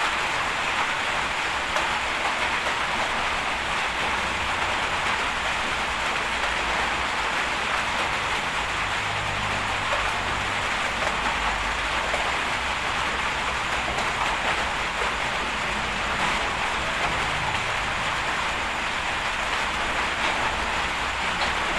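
Bulldozer working: a steady diesel engine drone whose low hum shifts in pitch about eight to twelve seconds in, under a dense, continuous hiss.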